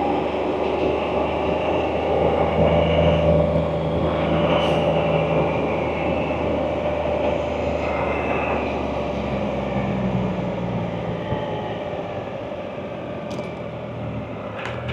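Can-Am Spyder three-wheeled motorcycle's engine running at a steady cruise, with road and wind noise, easing off a little near the end.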